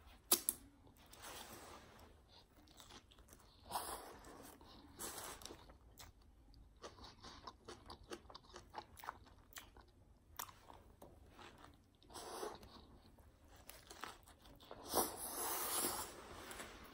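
Close-miked chewing and biting of a Subway Spicy Italian sub, wet mouth sounds with irregular clicks and smacks. There is a louder spell near the end.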